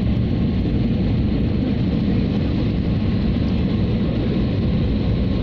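Airliner cabin noise: a steady low rumble of engines and rushing air, heard from inside the cabin as the plane descends to land.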